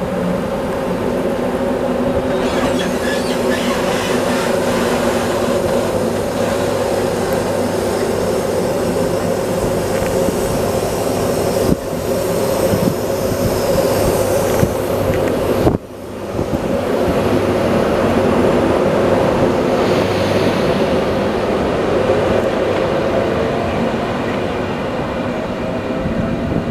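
Class 90 electric locomotive pulling away with its train of Mark 3 coaches: a steady electric hum from the locomotive over the rumble and squeal of wheels on the rails. The sound drops off sharply for a moment about 16 seconds in, then picks up again.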